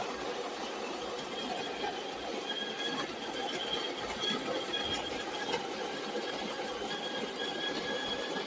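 Electric conical burr coffee grinder running steadily, a continuous motor hum with a faint high whine.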